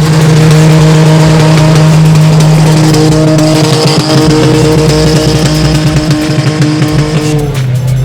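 A drag racing car's engine is held at steady high revs for several seconds over a loud hiss, as in a burnout with the tyres spinning. Near the end the engine note drops.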